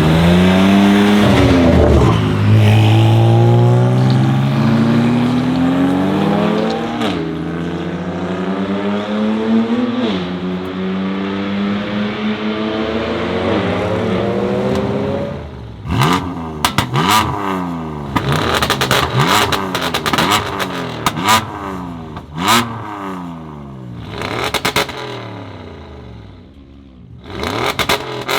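Tuned 700 hp BMW M2 Competition's twin-turbo straight-six with a full Akrapovič exhaust accelerating hard, the engine note climbing and dropping at three upshifts in the first ten seconds. From about halfway, the exhaust pops and crackles sharply on and off throttle over a run of revs that fall away, quieter near the end and rising again at the close.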